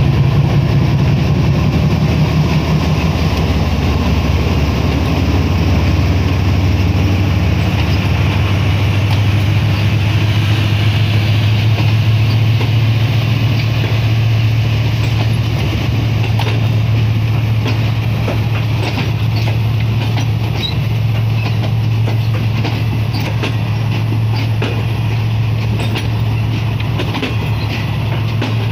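A departing train moves slowly past: the Pakistan Railways GEU40 diesel-electric locomotive, then the power van and the passenger coaches. A steady low engine drone runs throughout, and from about halfway on, clicks and clatter from the wheels on the rails sound over it.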